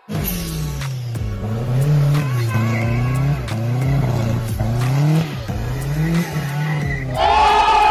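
Turbocharged Chevette engine in a go-kart revving up and down again and again, about six swells in seven seconds. Near the end a louder, higher sound with several tones joins in.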